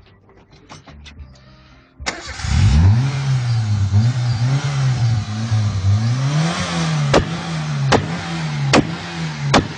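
Fiat Tempra's engine starting about two seconds in and then revved up and down again and again. Four sharp clicks come near the end, evenly spaced under a second apart.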